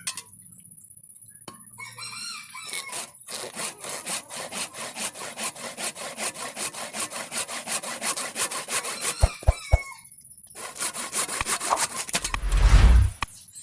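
Rapid, even rasping strokes of metal working on a hand saw blade, running for several seconds, pausing briefly, then starting again. A loud low thump comes near the end. A rooster crows about two seconds in.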